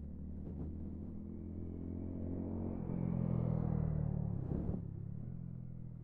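Exhaust of a Honda GB350's air-cooled single-cylinder engine running, growing louder to a peak about three to four seconds in, then easing off.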